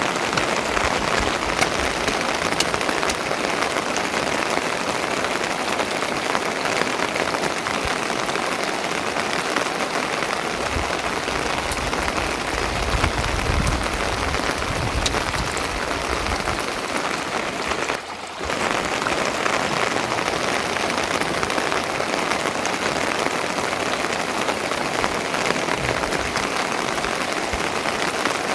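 Steady rain falling, an even hiss of many drops, with a low rumble partway through and a brief break about eighteen seconds in.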